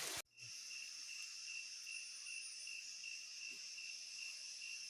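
A brief rush of stream water cuts off in the first moment, then insects chirr steadily: a high, evenly pulsing trill with a fainter, higher hiss above it.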